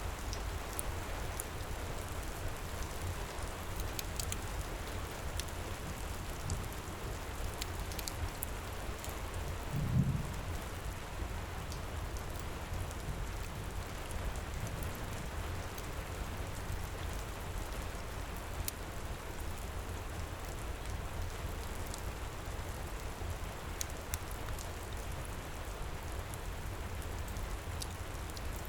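Steady heavy rain with a low rumble underneath, and scattered sharp crackles from a wood fire. About a third of the way in there is a single low thump.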